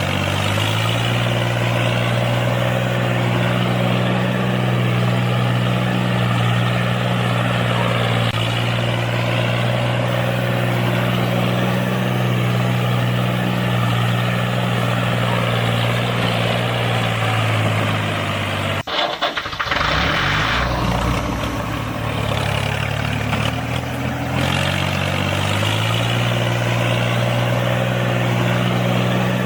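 Tractor engine running steadily at an even idle. About two-thirds of the way through it cuts off abruptly, comes back at a lower pitch and rises gradually to the earlier steady speed.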